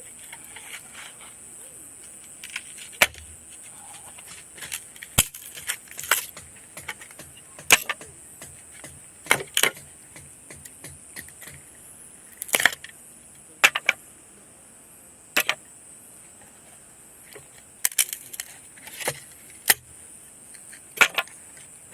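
Wood campfire crackling, with sharp pops and snaps at irregular intervals, over a steady high-pitched chorus of summer night insects.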